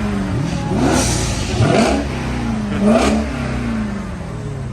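A car engine revved hard three times in quick succession, the pitch shooting up and falling back each time.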